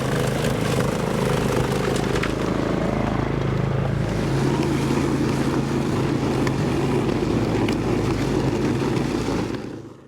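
Toro Power Max 826 OXE snowblower's engine running steadily, with a noisy rush over its hum; it fades out near the end.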